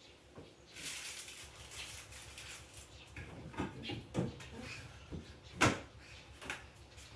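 Household handling noises: a couple of seconds of rustling or rubbing, then several knocks and clicks, the loudest about five and a half seconds in.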